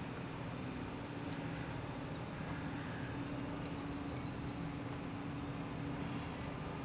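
A small bird chirping: a short twittering phrase a little after a second in, then a quicker run of about six high warbling notes near the middle. Under it runs a steady low engine-like hum.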